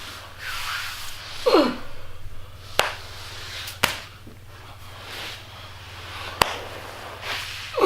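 A man grunting and breathing hard as he strains to get free, two of the grunts falling in pitch. Three sharp clicks or knocks come in between, with a steady low hum underneath.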